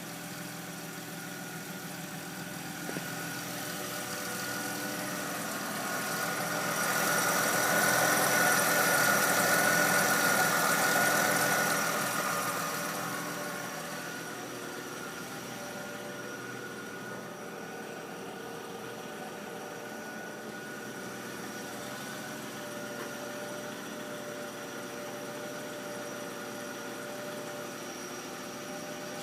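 Mercedes-Benz ML engine idling with a slightly rough idle and a strange noise that the owner suspects comes from the belt, with a few steady whining tones over the running engine. It gets louder for several seconds about a quarter of the way in, then settles back to a steady level.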